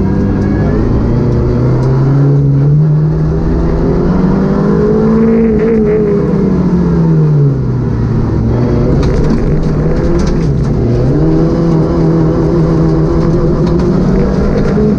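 Citroën Saxo VTS rally car's engine being driven hard on a stage. The revs climb for several seconds, fall away around the middle, dip once more, then rise and hold, with a few sharp clicks along the way.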